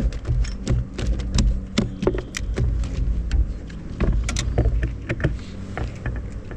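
Electric trolling motor humming steadily on a kayak, with many sharp clicks and knocks over it.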